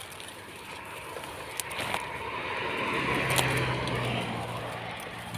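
A motor vehicle passing by: engine and road noise swell up over the first three seconds and then fade. A low steady engine hum comes in about halfway through, with a few sharp clicks on top.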